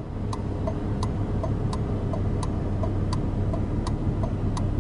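Hazard-light flasher relay of a Lamborghini Gallardo LP570-4 Superleggera ticking steadily, about three clicks a second, alternate clicks louder. Under it, the car's 5.2-litre V10 idles with a steady low hum.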